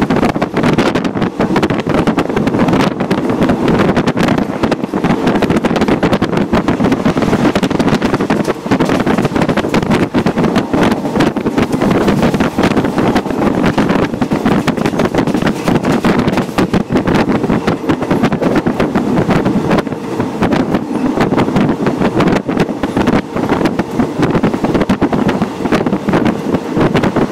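Passenger train running along the track, heard from beside the window with wind rushing over the microphone: a loud, steady rushing noise that does not let up.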